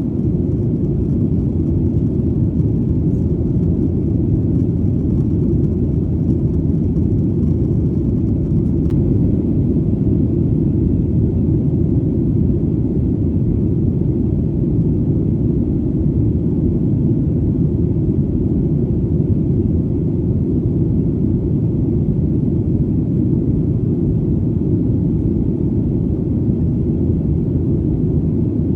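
Steady, deep airplane engine drone, an even low rumble that does not change.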